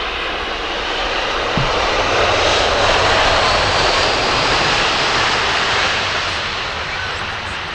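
Aircraft engines passing close by: a broad rushing roar that swells to its loudest about three seconds in, then slowly fades.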